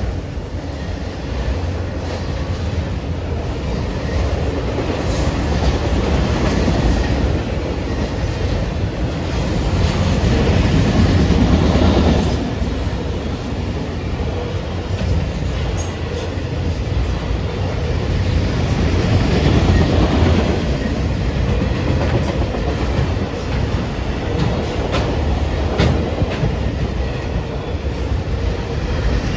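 A train rolling past on the rails, its wheels rumbling steadily and clicking over rail joints, with the sound swelling and easing as the cars go by.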